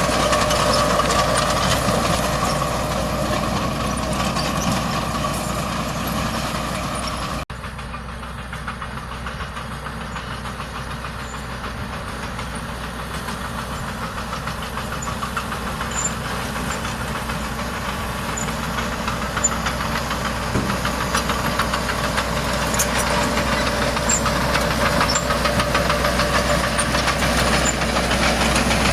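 Heavy diesel engine of earth-moving machinery running with a steady clatter. The sound cuts abruptly about seven seconds in, then comes back quieter and gradually grows louder.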